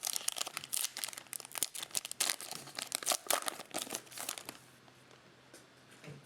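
Plastic cello-pack wrapper of a pack of baseball trading cards crinkling and tearing as it is opened, with a dense run of sharp crackles that dies away a little after the middle.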